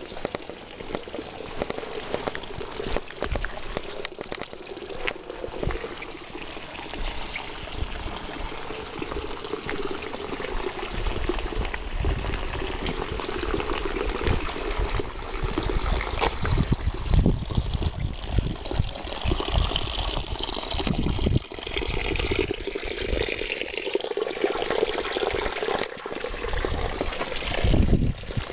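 Rain falling with water pouring and trickling, a steady splashing wash, with frequent short low thumps under it.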